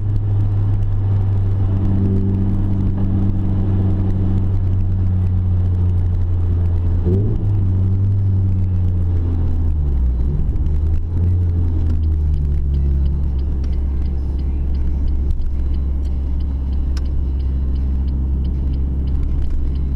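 Renault Clio 3 RS's 2.0-litre four-cylinder engine through a K-tec stainless cat-back exhaust, running at steady revs with a low drone; about ten seconds in the revs drop and the note settles lower.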